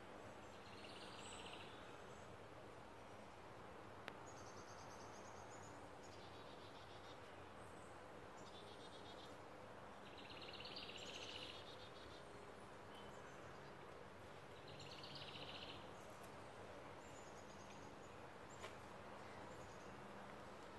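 Faint outdoor birdsong: short, rapid trilled phrases from songbirds every few seconds, the strongest about halfway through and again about three quarters of the way in, over a steady background hiss, with a couple of small sharp clicks.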